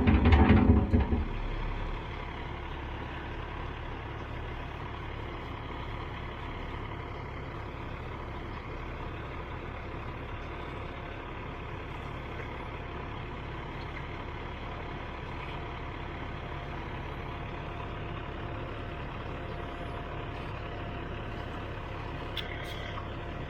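A truck engine running steadily, after a few loud low thumps in the first second and a half.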